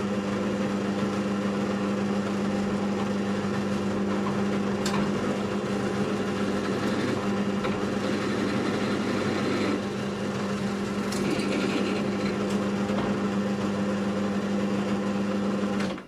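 Electric drill press running steadily with a constant motor hum. It loads slightly about ten seconds in and is switched off just before the end.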